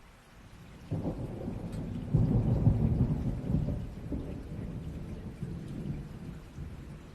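A low rumble of thunder over steady rain. The rumble comes in suddenly about a second in, is loudest around two to three seconds, then slowly fades.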